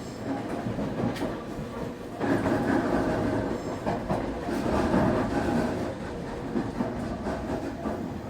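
Semboku 9300 series electric train running on the line, with wheels clicking over rail joints and the traction motors, driven by a Hitachi SiC VVVF inverter, humming louder from about two seconds in.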